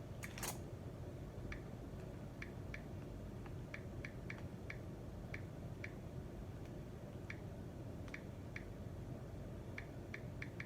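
Room tone: a steady low hum with faint, irregular light ticks, roughly two a second, and a brief rustle just after the start.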